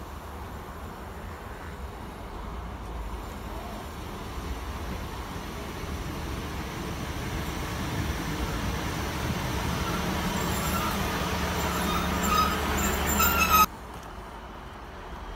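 Class 150 Sprinter diesel multiple unit approaching along the platform, its engine rumble and wheel noise growing steadily louder, with a high squeal coming in over the last few seconds. The sound cuts off abruptly near the end.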